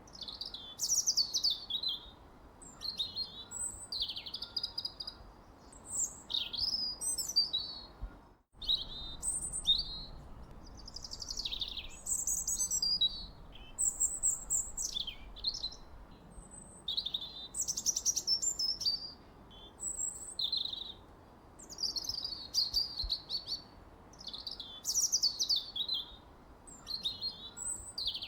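Songbird singing: short, varied, high chirping phrases, some with quick trills and downward slurs, repeated every second or two with short pauses between them. The sound cuts out completely for a moment about eight seconds in.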